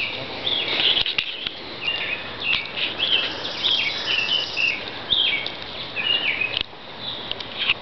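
A bird chirping over and over in quick short notes, several each second, with a few brief clicks among them.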